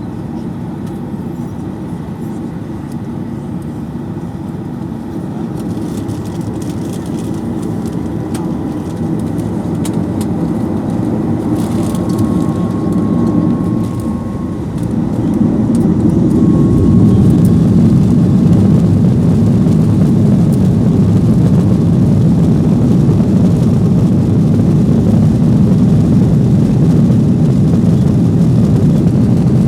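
Boeing 737-800's CFM56 jet engines heard from inside the cabin, growing steadily louder for about fifteen seconds and then holding at a loud, steady rumble, typical of the engines spooling up to take-off power.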